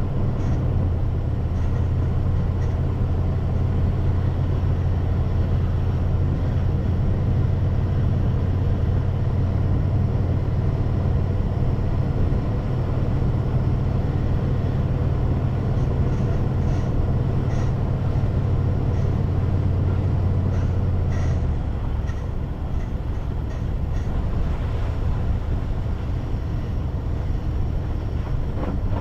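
Car driving, with a steady low road and engine rumble that drops off about two-thirds of the way through. A few faint ticks come shortly before the drop.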